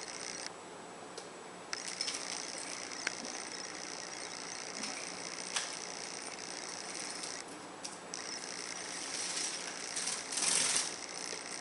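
Fischer's lovebird bathing in a shallow plate of water: a rapid rattling patter of wing-fluttering and splashing in bouts with short pauses, and a louder flurry near the end.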